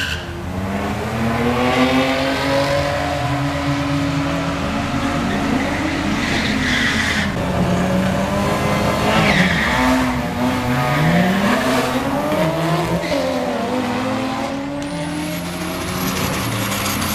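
Drag-racing street cars launching and accelerating down the strip, engines revving hard. Their pitch climbs and drops back again and again as they run through the gears.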